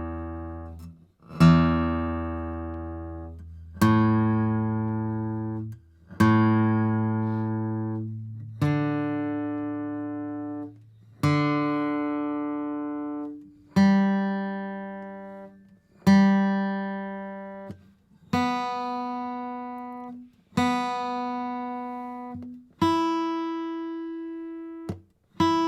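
Guitar's open strings plucked one at a time to check the tuning, from low E up to high E, each string sounded twice. About one note every two and a half seconds, each ringing out and fading before the next.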